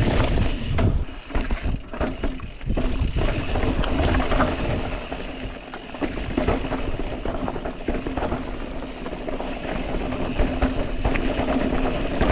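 Mountain bike riding over rough dirt and rock: wind buffeting the microphone, tyres rolling and the bike rattling over bumps in a continuous clatter.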